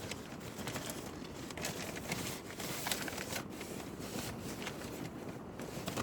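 Packaging crinkling and rustling in irregular bursts as a phone holder is pulled out of its box.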